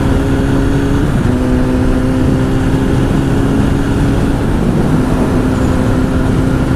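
Honda CBR1000 sportbike's inline-four engine, fitted with a Two Brothers exhaust, running at a steady cruise under heavy wind rumble on a helmet mic. The engine note briefly breaks and dips twice, about a second in and around four and a half seconds in.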